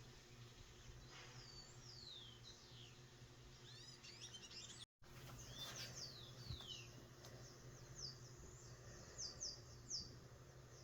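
Faint high chirps of small birds: many short, quick notes that fall in pitch, coming more often in the second half, over a low steady hum. The sound drops out for a moment about five seconds in.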